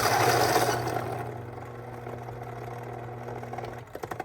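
Fellow Ode Gen 2 electric burr coffee grinder running empty, with no beans in it: a steady motor whir, loudest in the first second, then settling lower and pretty quiet, and cutting off a little before the end.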